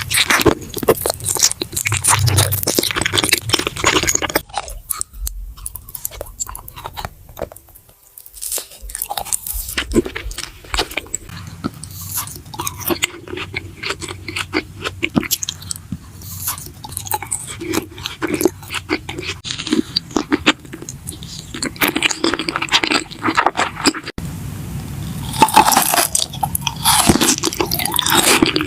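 Close-miked eating for ASMR: crunchy bites and chewing, a dense run of sharp crackles and crunches. There is a quieter pause roughly a quarter of the way in, and the crunching is loudest near the end.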